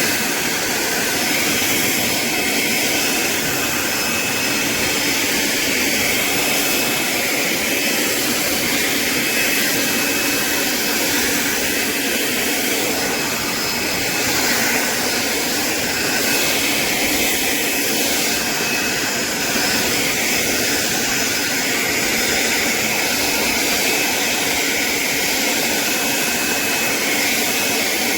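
Greenworks 40V brushless cordless push mower running steadily as it cuts overgrown grass, its electric motor and spinning blade giving a steady high whine over a hiss.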